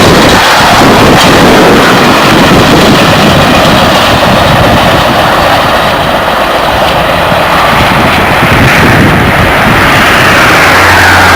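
A train passing close by: a loud, steady rush of wheel and rail noise that eases a little midway and builds again near the end.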